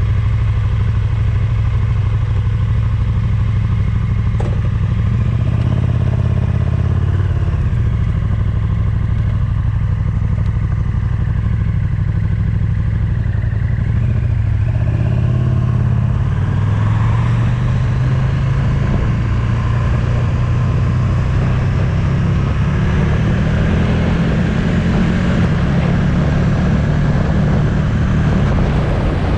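Motorcycle engine running on the move, its pitch dropping and shifting several times in the first half, then climbing steadily through the second half.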